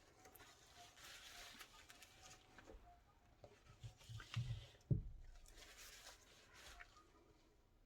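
Quiet room with faint rustling and scraping handling sounds and a few soft knocks, the sharpest about five seconds in.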